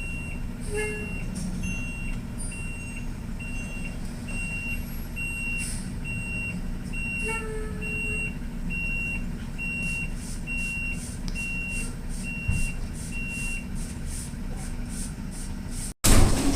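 Truck engine running with its reversing alarm beeping about once a second, one steady high tone each time; the beeping stops near the end.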